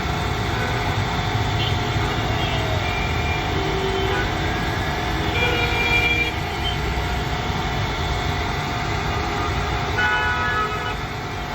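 Steady low mechanical rumble like a motor running, with brief high pitched tones now and then, most clearly twice.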